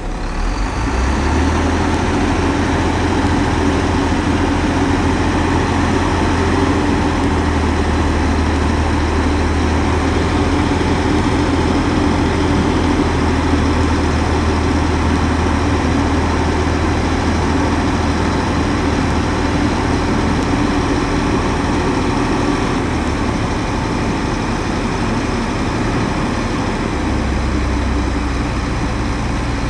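Heavy diesel engine of earthmoving machinery running steadily, a little louder from about a second in.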